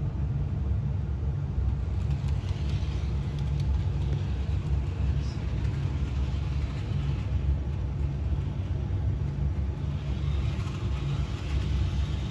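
Bachmann HO-scale Toby the Tram Engine model running along the track with a coach in tow: the steady low rumble of its motor and wheels on the rails.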